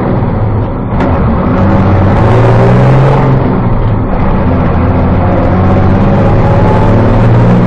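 Diesel engine of a short bus running loud under hard acceleration, its pitch held and then dropping away in steps, with a sharp click about a second in.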